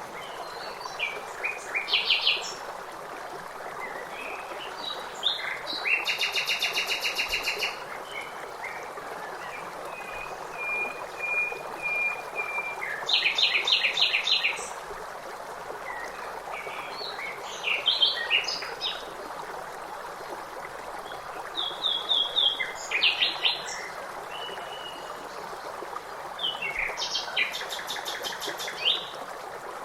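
Several songbirds singing in short chirping phrases and fast trills, over the steady rush of flowing water.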